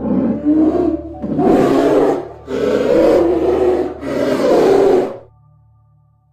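A large animal roaring four times, each call a loud, rasping burst of about a second, the last ending about a second before the end.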